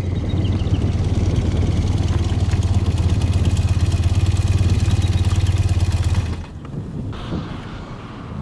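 Motorcycle engine running steadily while riding, with a strong low hum and fine rhythmic pulsing. About six seconds in it drops away sharply, leaving a quieter rushing sound.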